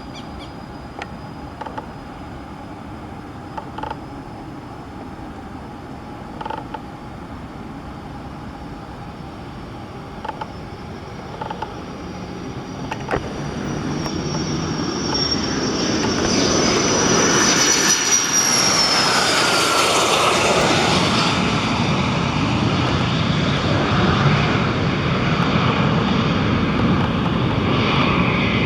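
Cessna Citation CJ3's twin Williams FJ44 turbofans on a takeoff run: a distant jet roar that builds steadily over about ten seconds, with a high whine that climbs in level, then drops in pitch as the jet passes about two-thirds of the way in. A loud broad roar continues as it climbs away, with a few faint clicks in the quieter first half.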